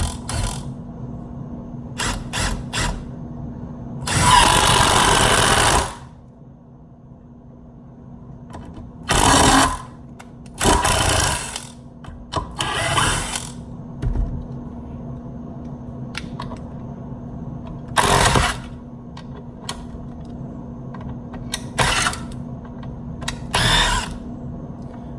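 Cordless impact driver run in bursts. One long burst of about two seconds comes about four seconds in, followed by about six shorter bursts spread through the rest.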